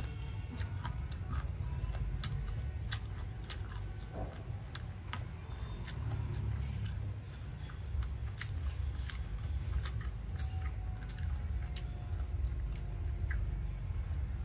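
A person chewing and biting mango salad close to the microphone: irregular crisp crunches, a few of them sharp and loud, over a steady low rumble.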